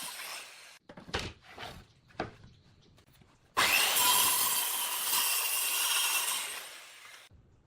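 A power tool working wood. Its steady noise dies away at the start, and a few short scraping strokes follow. Then it starts again abruptly about three and a half seconds in and fades out near the end.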